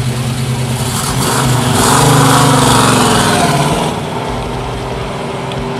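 Camaro's 383 stroker V8 running as the car pulls away. The engine gets louder and changes pitch as it accelerates, about two seconds in, then eases off and fades as the car drives off.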